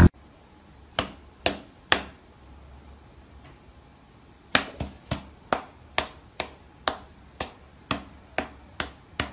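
Light, sharp pats of a cat's paw striking an outstretched human palm: three spaced pats, then after a pause a steady run of about two pats a second.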